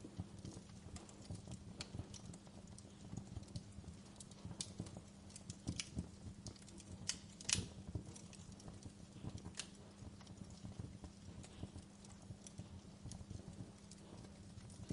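Wood fire crackling with irregular sharp pops and snaps over a low steady rumble. The loudest pop comes about halfway through.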